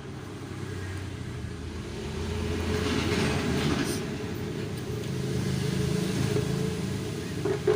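Low rumble of a passing motor vehicle, swelling about three seconds in and again around six seconds.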